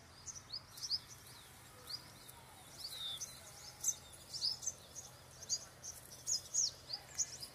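Birds chirping: many short, high chirps, several a second, some sliding in pitch, over a faint steady background hum.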